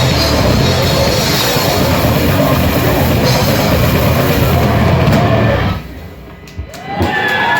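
Grindcore band playing live: drum kit and distorted guitars at full volume, stopping abruptly about six seconds in. Near the end there is a knock, then a sliding, wavering pitched tone.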